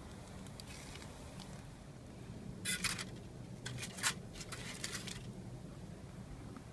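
A few short scraping, rustling handling sounds, clustered between about three and five seconds in.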